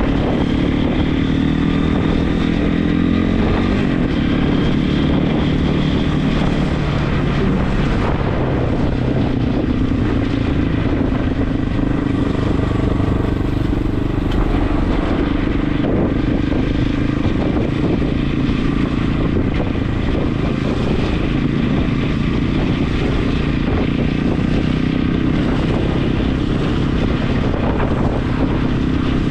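Regulmoto TE enduro motorcycle engine running while riding, its note easing down over the first few seconds and then holding steady.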